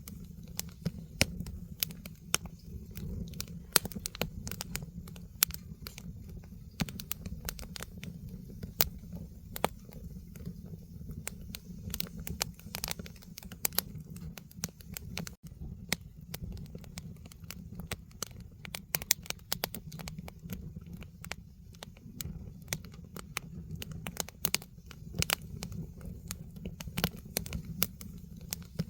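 Firewood burning in a fire pit: irregular sharp crackles and pops over a steady low rumble of the fire.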